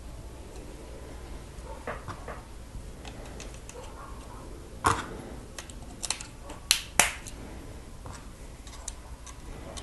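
Plastic Lego pieces clicking and snapping together as they are pressed on, a scattering of sharp clicks with the loudest about five seconds in and a close pair near seven seconds.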